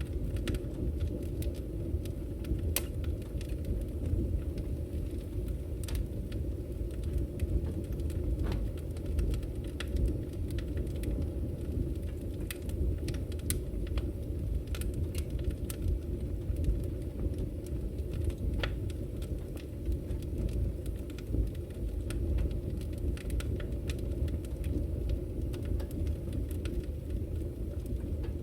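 Wood fire in a fireplace crackling: scattered sharp pops and snaps of burning firewood at irregular intervals over a steady low rumble.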